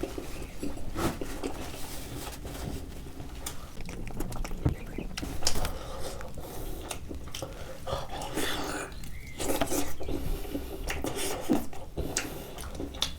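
Close-up wet chewing and lip-smacking of a person eating sauce-covered turkey wings, with many irregular short clicks.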